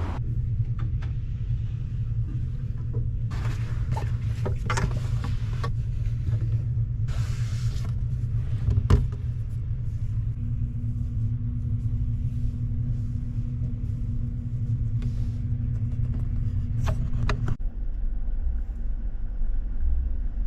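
A vehicle driving along: a steady low rumble of engine and road noise, with scattered clicks and knocks over it. The sound changes abruptly near the end.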